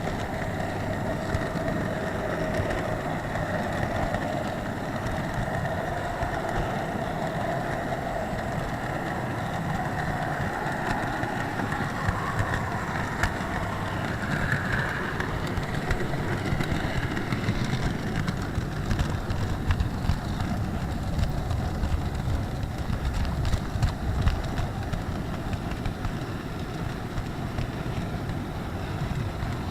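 An HO-scale model train rolling along the track, picked up by a tiny keychain camera's microphone riding on a wagon: a steady rumble with many small clicks.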